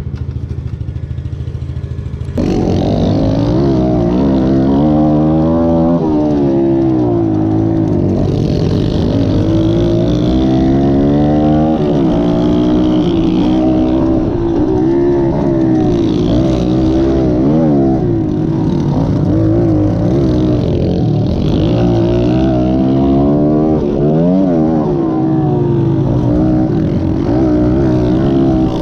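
Pit bike engine running steadily, then about two seconds in opening up loudly and revving up and down again and again as the bike is ridden hard.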